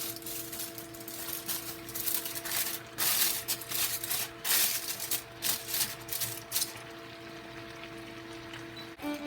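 Irregular rustling and scraping kitchen-work sounds, busiest through the middle and dying away near the end, over a steady low hum.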